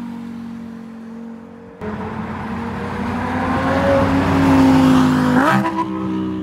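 Car engine accelerating hard, heard from inside a moving car. The engine sound surges about two seconds in and climbs steadily in pitch for a few seconds. Near the end it flares quickly upward and drops.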